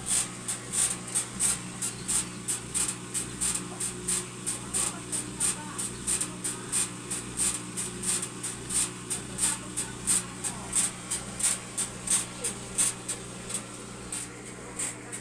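Whirlpool front-load washing machine running, its drum turning with a regular swishing rub about three times a second over a steady motor hum. The technician puts the machine's trouble down to worn suspension dampers.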